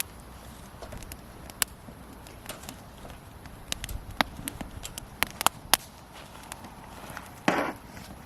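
Small wood fire of twigs and disposable chopsticks crackling, with sharp pops at uneven intervals, and a brief rustle near the end.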